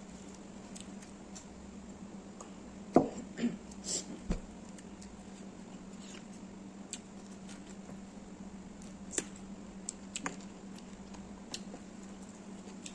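Close-up eating sounds: chewing and wet mouth clicks and smacks while eating rice by hand, scattered through, with a cluster of louder clicks about three to four seconds in, over a steady low hum.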